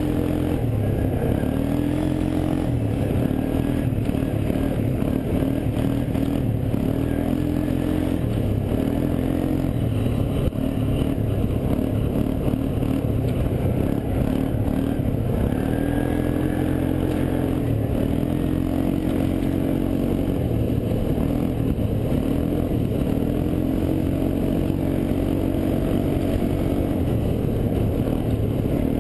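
ATV engine running under way, its pitch rising and levelling off again and again as the throttle is worked, over a steady rough rumble.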